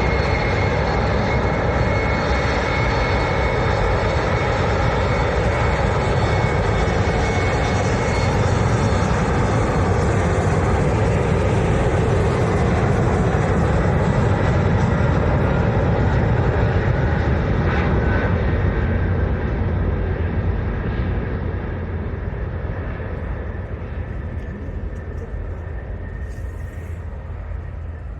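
Jet airliner's engines running at high power close by, a loud rumble with a steady high whine that had risen just before, then slowly fading away over the last several seconds as the aircraft moves off.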